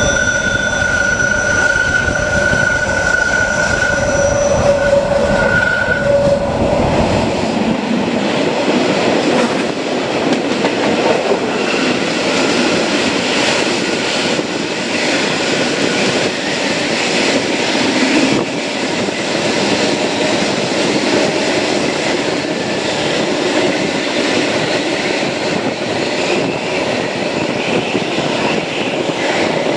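Matterhorn Gotthard Bahn passenger train running, heard from aboard: the wheels squeal in steady high tones over a deep rumble for about the first six seconds, then the rumble drops away, leaving a steady rolling noise with scattered clicks from the rails.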